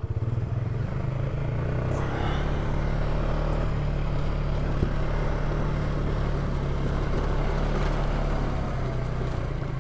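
Polaris ATV engine running steadily, a continuous low hum with even noise over it and no change in pace.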